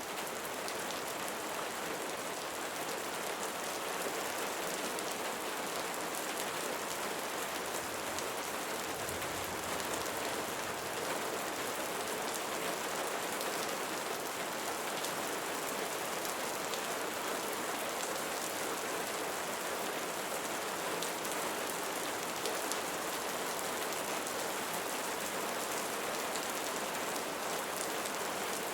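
Steady rainfall: an even hiss of rain with many fine drops ticking on a surface.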